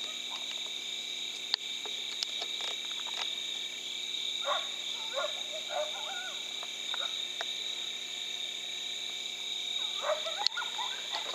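Steady, high-pitched chorus of night insects. Short wavering calls rise and fall twice, about four seconds in and again near the end, with a few sharp clicks.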